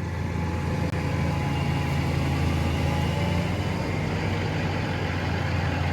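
Boom truck's engine running steadily, a deep even hum.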